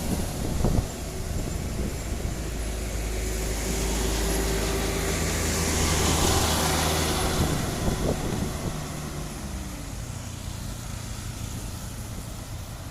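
Heavily loaded sugarcane truck's diesel engine labouring up a steep grade, growing louder as it passes and then fading away, with a couple of sharp knocks along the way.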